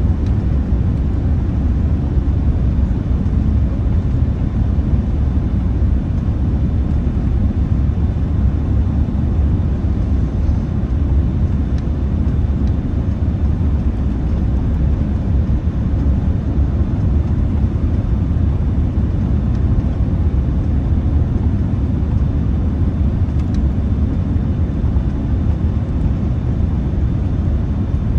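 Steady low rumble of airliner cabin noise inside a Boeing 787-10, from the engines and the airflow over the fuselage, without change or break.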